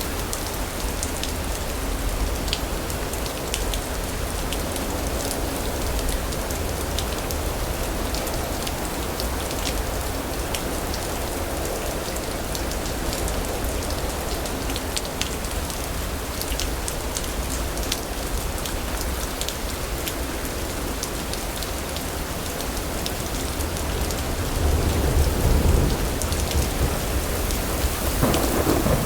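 Steady rain falling, with scattered close drop patter, and a low rumble of thunder swelling a few seconds before the end.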